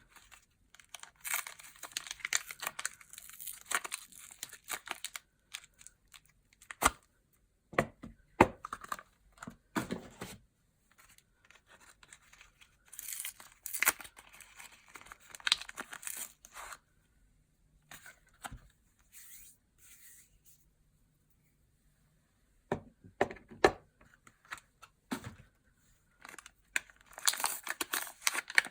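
Soap packaging being torn open and crinkled in several bursts of rustling, with single sharp taps and knocks in the pauses between.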